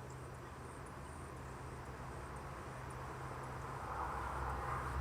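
A steady low hum, with a soft hiss swelling near the end.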